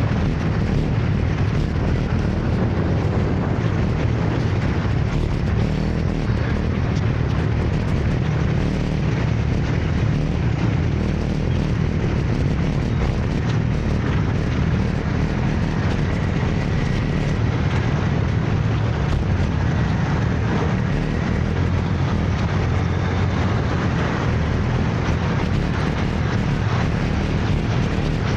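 Steady, loud rumbling drone of a motor scooter ride through city traffic, with no breaks or sudden events.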